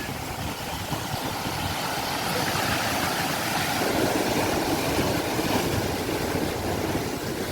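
Sea waves washing with wind buffeting the microphone: a steady rushing rumble that swells about four seconds in.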